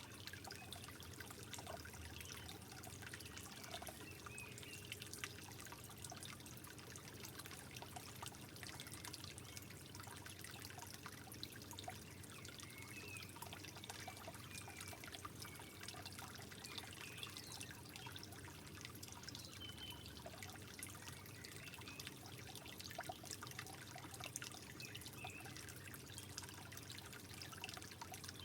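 Soft trickling water, a steady gentle flow with many small drips and bubbly plinks.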